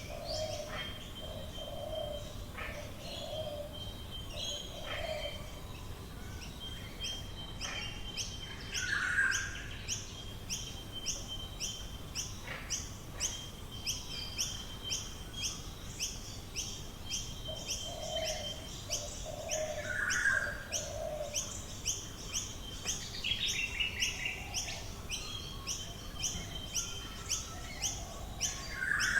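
Australian bush birds singing together in a dawn chorus. One bird repeats a high note at an even pace of about two a second from a few seconds in; low notes come in short runs near the start and again in the middle, with other calls scattered between.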